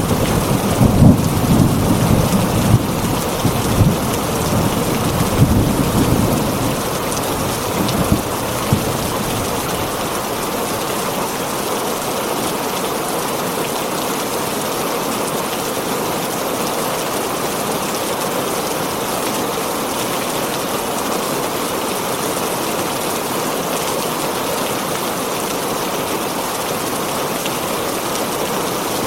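Heavy rain falling steadily on a tin roof, with thunder rumbling low through the first eight or nine seconds before fading, leaving only the even hiss of the rain.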